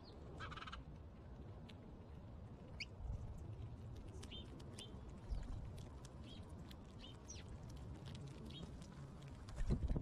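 Small songbirds chirping: short, high, falling chirps every second or so over a steady low rumble. A soft thump comes about halfway through and a louder one near the end.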